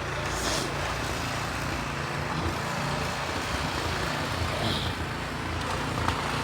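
Car engine running steadily, a low even hum, as one vehicle tows another car stuck in deep snow with a rope.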